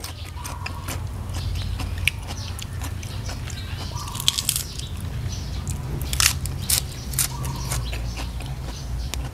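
A person chewing and biting a mouthful of spicy duck-embryo egg salad close to the microphone, with scattered small crisp clicks and crunches. A steady low hum runs underneath.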